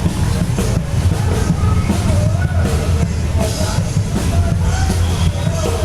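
Rock music from a live band: a drum kit keeping a steady beat under a singing voice.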